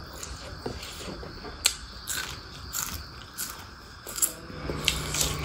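Eating sounds: wet mouth smacks and chewing clicks, a handful of sharp ones spread out, as rice and pork curry are eaten by hand.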